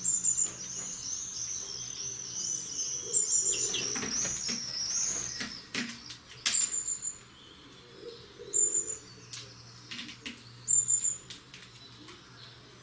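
European greenfinch singing: a long, wavering, rippling twitter for about the first six seconds, then short high notes repeated every couple of seconds. A few sharp clicks fall among the song.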